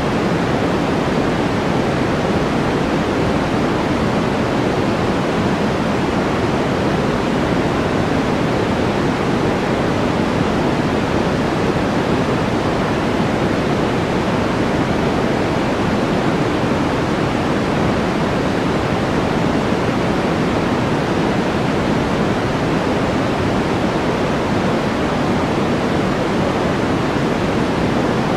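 Steady white-noise background track: an even rushing noise, fuller in the lows and mids than at the top, with no breaks or separate events.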